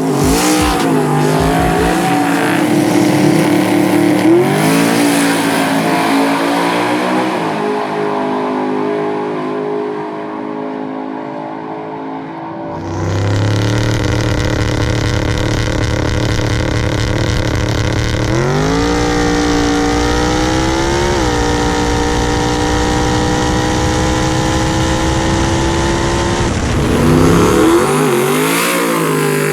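Twin-turbo Coyote V8 engine of a drag Mustang revving and running hard on a hub dyno. The note wavers and holds steady, then about halfway through turns suddenly louder and deeper, climbs in pitch, drops back and holds before falling away near the end.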